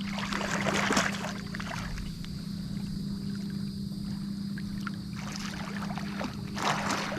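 Lake water sloshing and rushing as hand-fishermen submerge, with louder swirls of water about a second in and again near the end, over a steady low hum.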